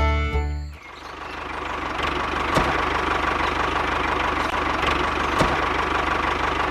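Music breaks off within the first second, then a small motor runs steadily with a fast rattling hum, with a few light clicks.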